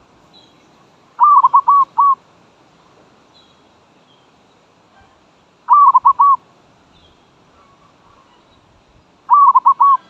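Zebra dove (merbok) cooing: three loud bouts of quick staccato notes, each bout four or five notes in under a second, spaced about four seconds apart.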